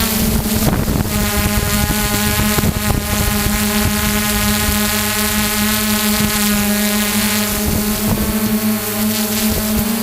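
Multirotor drone's motors and propellers running at a steady pitch, a hum with many overtones, with wind buffeting the microphone in gusts.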